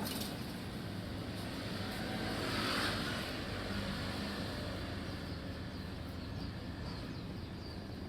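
Steady outdoor background noise with a vehicle going past, swelling to its loudest about three seconds in and then fading.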